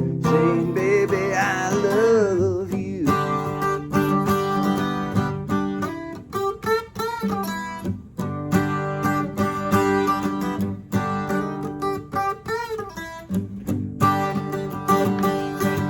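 Blues-country music: strummed acoustic guitar chords under wavering lead notes, with no singing.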